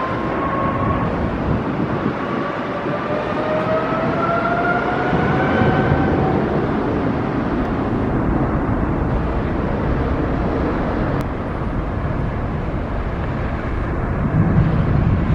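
City street traffic, with vehicles passing and one vehicle's whine rising slowly in pitch through the first half as it speeds up. A low rumble swells near the end.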